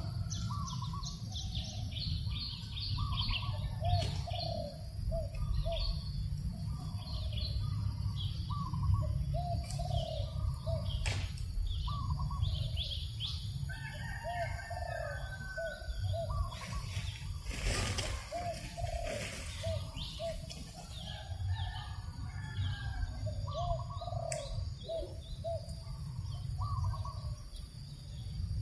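Many birds chirping and calling at once in quick, short repeated notes, over a steady low rumble of breeze on the microphone.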